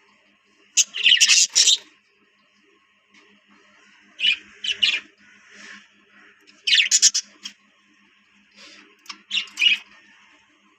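Budgerigars calling in four short bursts of harsh, high chattering squawks over faint steady background chatter.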